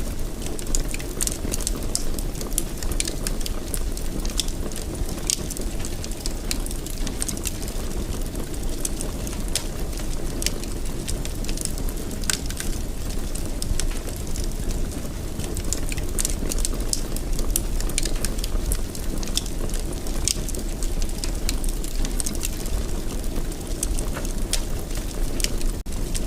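Wood fire burning in a fireplace: a steady low rumble of flame with frequent sharp crackles and pops at irregular intervals.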